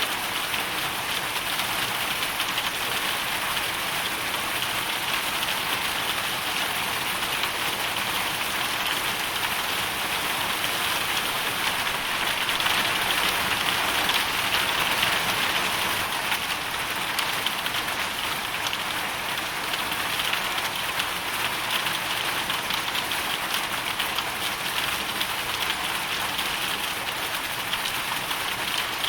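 Hailstorm: a dense, steady patter of hail and rain striking surfaces, swelling slightly a little before halfway through.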